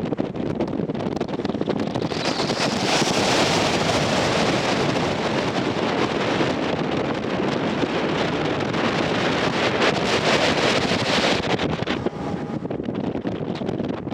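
Wind buffeting the microphone over the steady rush of a sightseeing cruise ship under way. The wind grows stronger and brighter about two seconds in and eases again near the end.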